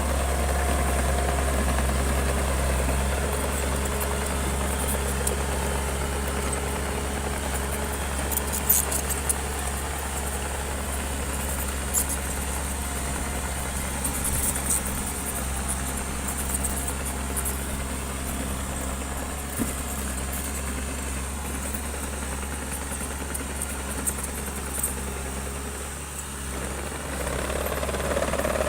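Bulldozer's heavy diesel engine running steadily, with scattered sharp metallic clanks and rattles. The engine eases off briefly near the end and then picks up again.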